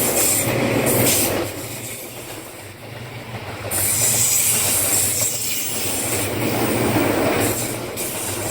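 A train running through a curve, its wheels giving a high-pitched squeal that comes and goes over a steady low hum, loudest in the second half.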